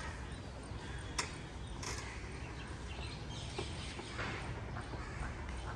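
Outdoor background noise: a steady low rumble with faint bird chirps and a few sharp clicks.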